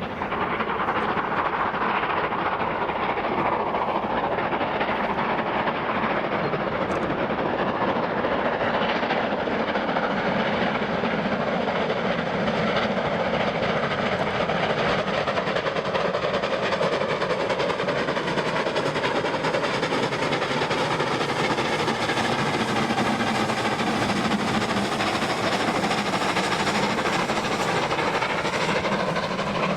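Double-headed steam train, a Black Five and a Jubilee Class locomotive, passing at steady loudness, with the coaches running on the rails. Faint tones slide slowly in pitch in the second half.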